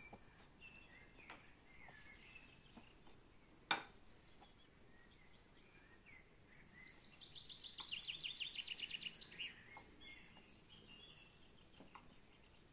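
Birds singing faintly: scattered short chirps, and a rapid trill of quickly repeated falling notes lasting a couple of seconds in the middle. A single sharp click a little under four seconds in.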